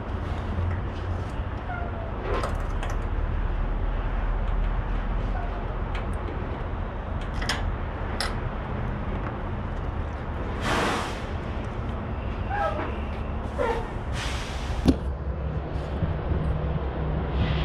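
Steady low rumble of an idling semi truck, with scattered clacks, rattles and short rustling bursts, and one sharp knock near the end.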